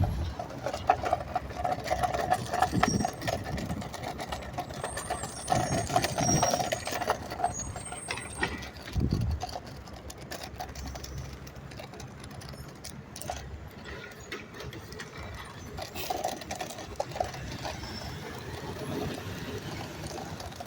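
Garbage truck working: its engine running, with intermittent clanks, squeals and hydraulic whine in the first half and again near the end.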